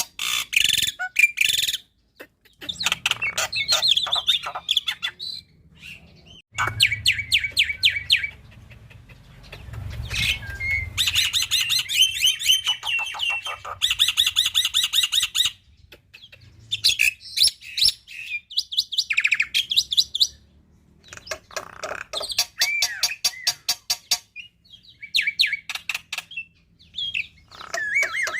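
Black-winged myna (jalak putih) singing a varied song of fast stuttering trills of repeated notes and whistled glides, in bursts broken by short pauses. The song is full of phrases mimicked from other birds.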